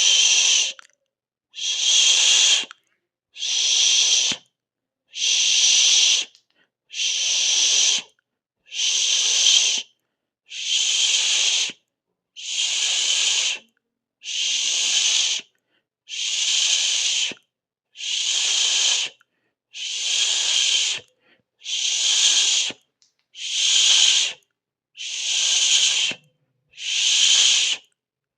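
Rhythmic shushing: a long 'shhh' hiss, about a second each, repeated steadily about every second and a half to two seconds with brief silences between.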